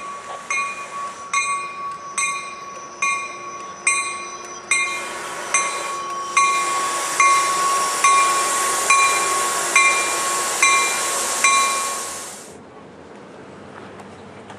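A warning bell clangs steadily, about once a second, as a Sounder commuter train comes into the station. The rush of the train on the rails builds up under the bell from about five seconds in, and both stop abruptly about twelve seconds in, leaving a low background.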